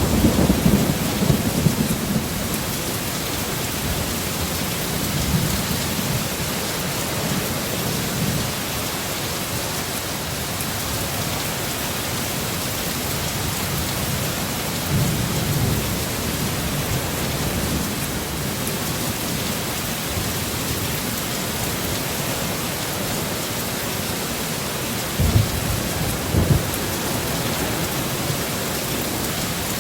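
Heavy rain pouring steadily, with low rumbles of thunder in the first few seconds and again around halfway, and two short, sharper low rumbles a little before the end.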